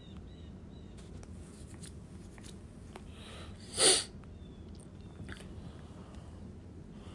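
A single short, sharp sneeze-like burst about four seconds in, over a faint low hum and a few soft clicks.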